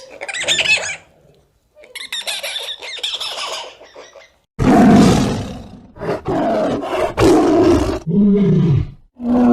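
A string of short animal calls cut together, each starting and stopping abruptly; the loudest begins suddenly about halfway through, and a pitched call that bends up and down follows near the end.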